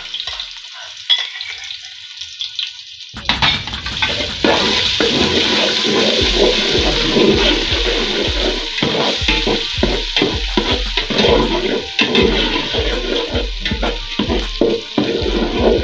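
Hot groundnut oil sizzling in a pot. About three seconds in, a sudden, much louder rushing sizzle begins as ground pepper and crayfish go into the hot oil. Background music with a steady beat plays underneath.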